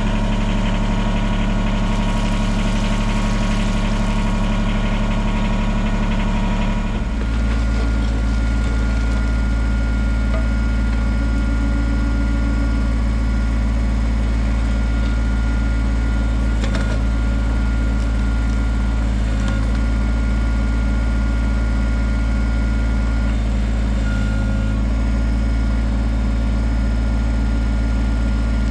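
Kubota BX23S compact tractor's three-cylinder diesel engine running steadily, its note shifting once about seven seconds in and then holding steady.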